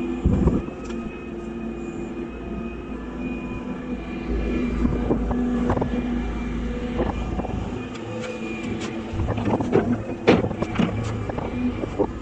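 Volvo excavator's diesel engine running steadily, with a series of sharp knocks and clanks, most of them near the end.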